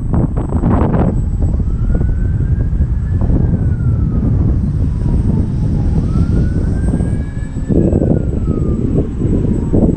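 Gusty wind buffeting the microphone, the loudest sound, over the thin whine of an E-flite Ultimate 2 RC plane's electric motor and propeller in flight. The whine slowly rises and falls in pitch several times as the plane moves and the throttle changes.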